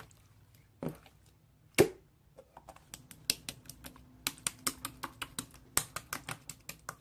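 Clicking of computer keyboard keys: a few separate clicks, one louder knock just under two seconds in, then steady typing from about two and a half seconds in, several keystrokes a second.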